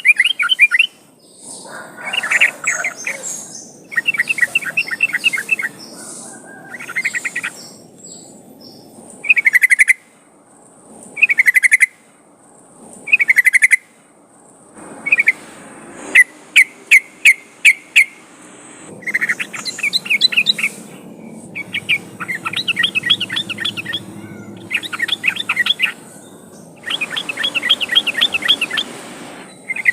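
Yellow-vented bulbul (trucukan) singing: bursts of rapid chattering notes alternating with short bubbly phrases, repeating every second or two.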